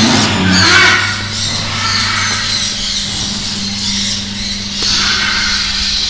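Birds squawking in short bouts, near the start and again near the end, over a steady low electrical hum from the egg incubators.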